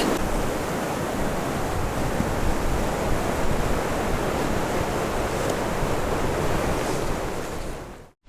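Strong blizzard wind blowing hard and buffeting the tent in a steady rush with heavy low rumble, fading and cutting off near the end.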